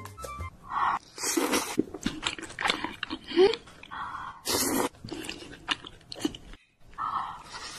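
Close-miked eating sounds: a person biting and chewing chewy tteokbokki rice cakes in sauce, with wet mouth clicks and a few louder, longer mouth noises.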